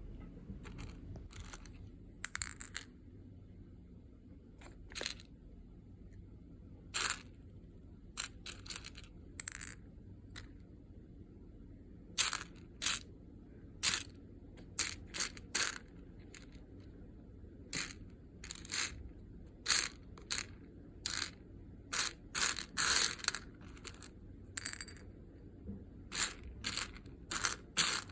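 Loose coffee beans being handled by hand: small hard beans clicking and clattering in short, irregular bursts, sparse at first and much more frequent from about halfway through.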